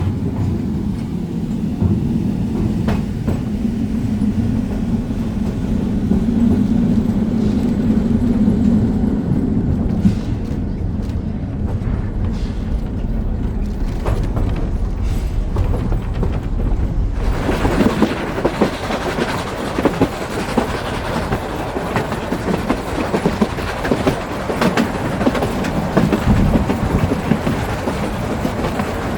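A heritage train running on rails: a steady low engine drone at first, then, after an abrupt change a little past halfway, a louder noisy rattle of wheels with sharp clicks over the rail joints.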